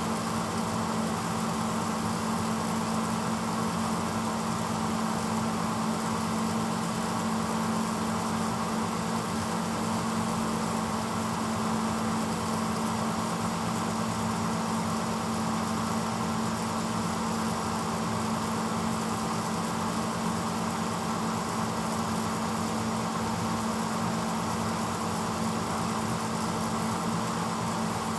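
1986 Hotpoint Potwasher dishwasher running mid-cycle: a steady motor hum with an even rushing noise over it.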